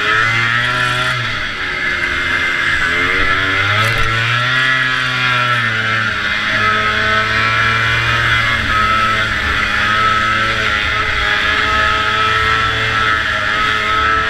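Racing snowmobile's two-stroke engine running hard. Its pitch falls and climbs again a couple of times in the first few seconds as the throttle is eased and reopened, then it holds a steady high pitch.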